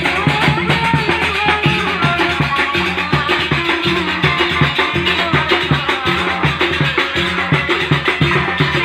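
Ale-ale band music played live: a steady, fast drum rhythm with a repeating bass pattern and a melody line over it.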